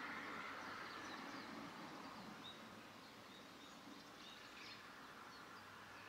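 Faint outdoor ambience: a steady background hiss with a few short, high bird chirps scattered through the middle and later part.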